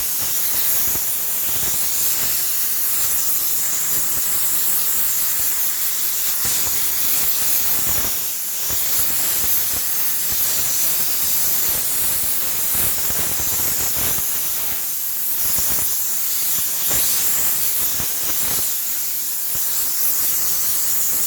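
Steam cleaner jetting steam in a steady high hiss, with a few light knocks from the nozzle working over surfaces.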